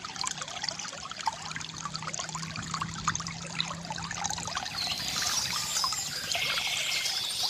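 Shallow stream trickling and splashing over stones, a steady babble of water. From about five and a half seconds in, a high, dense chatter of birdsong lies over it.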